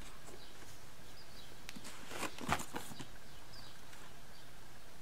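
A cardboard product box being handled, with a few short knocks and rustles about two to three seconds in, over steady background noise with faint high chirps.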